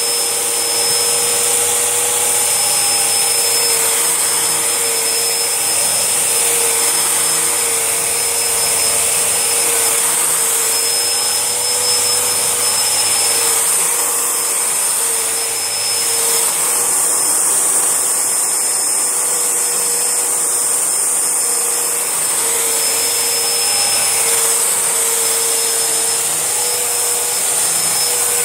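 Panasonic MC-E4103 twin-cylinder bagless vacuum cleaner running steadily. It makes a loud, even whir with a slightly wavering hum and a high hiss as it works over rice and cornflakes, which it chews up and throws about rather than picking up.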